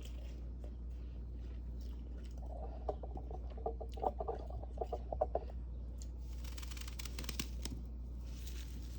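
Crispy freezer frost crunching: a run of sharp crackles a few seconds in, then a longer crunchy rasp, over a steady low hum.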